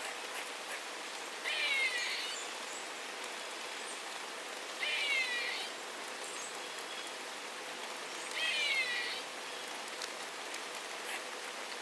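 A bird calling three times, about three and a half seconds apart, each call a short run of quick downslurred notes, over steady rain.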